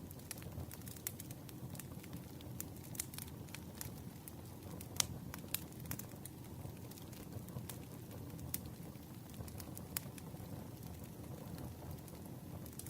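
Campfire burning: a steady low rumble of flames with irregular sharp crackles and pops of burning wood. The loudest pop comes about five seconds in.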